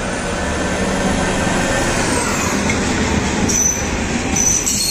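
Small HŽ series 2 132 diesel shunting locomotive passing close by, its engine droning, followed by passenger coaches rolling over the rails. Short high-pitched wheel squeals begin about three and a half seconds in.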